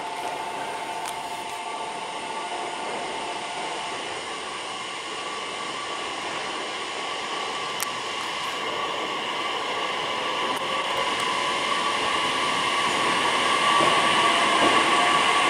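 E655 series 'Nagomi' electric train pulling out of a station platform, its running noise growing steadily louder over the last few seconds as it gathers speed and passes close by.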